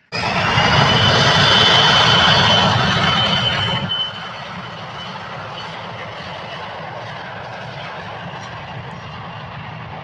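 Jet airliner's engines at takeoff thrust: a loud rush with a steady high whine, starting abruptly. About four seconds in it drops sharply to a quieter, steady rumble.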